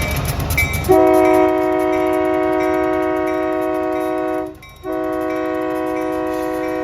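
Freight diesel locomotive's multi-chime air horn sounding a loud chord about a second in, holding a long blast, breaking off briefly, then starting a second long blast. Before the horn the locomotive's engine runs under a regular ticking.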